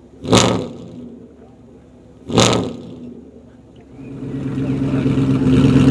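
Performance car's engine and exhaust: two loud, sharp bursts about two seconds apart over a low idle, each dying away within half a second. From about four seconds in, an engine grows steadily louder.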